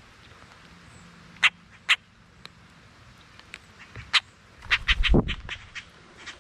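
Birds on camera: a few short, sharp taps, then a quick run of taps with a low thump about five seconds in.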